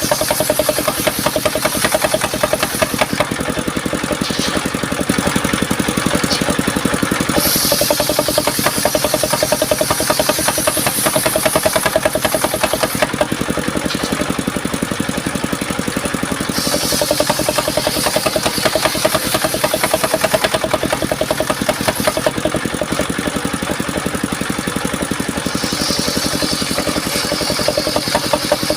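Engine driving a portable circular-saw mill, running steadily with a fast, even beat. A higher hiss over it fades and returns several times.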